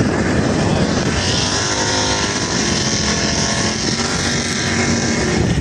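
Drag-race car engines running, heard from the trackside over a steady rushing noise. Their engine tones dip and rise again in the middle.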